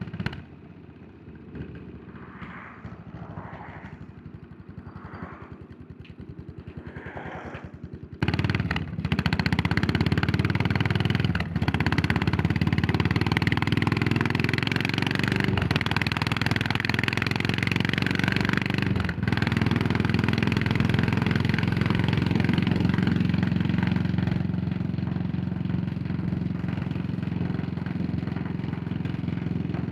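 Yamaha SR400's single-cylinder four-stroke engine ticking over quietly, then opening up loudly about a quarter of the way in as the bike pulls away. It then runs hard with three brief breaks in the sound a few seconds apart, as it shifts up through the gears.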